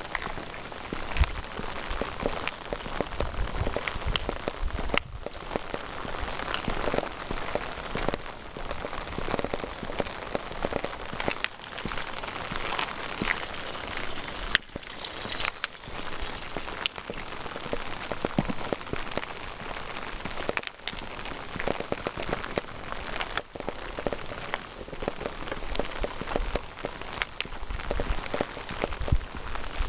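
Steady rain falling, with many sharp little ticks of drops striking close surfaces.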